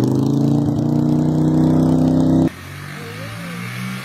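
Minibike engine held at high revs, its pitch rising a little, then cutting off suddenly about two and a half seconds in to a quieter, lower engine sound.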